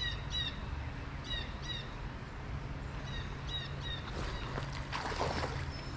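A bird calling in short, sharp chirps that come in pairs, three times, over a steady low background hum. From about four seconds in, rustling and crunching take over.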